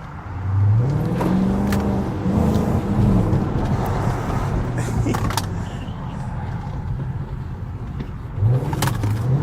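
Chrysler 300's Hemi V8 with a muffler delete revving up hard about half a second in, the exhaust note rising, holding for a couple of seconds and falling back, then rising again near the end.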